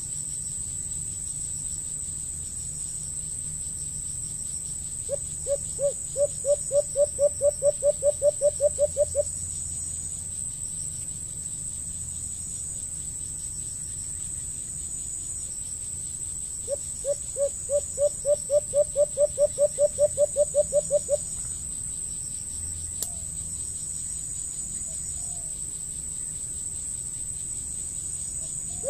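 A bird calling: a run of about fifteen low notes that grows louder and slightly quicker over some four seconds, given twice about eleven seconds apart. Under it, an insect gives a steady high-pitched buzz.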